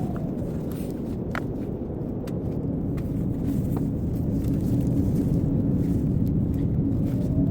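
Blizzard wind blowing in a steady low rush, with a few faint clicks scattered through it.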